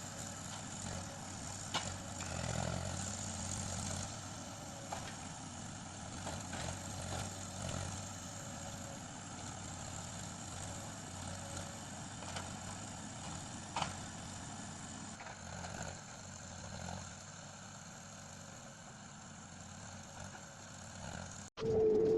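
Heavy forestry machine's engine running steadily while its hydraulic crane handles logs, with a few sharp knocks.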